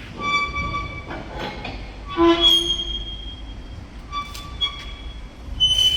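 Steel of a truck's wing-body cargo box squealing and creaking under strain as it is pulled back into line: a run of short, high-pitched squeals, the loudest about two seconds in.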